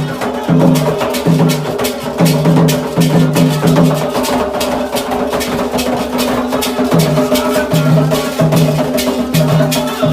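Candomblé ritual drumming: atabaque hand drums beat a steady repeating rhythm under a quick run of sharp, clicking percussion strokes.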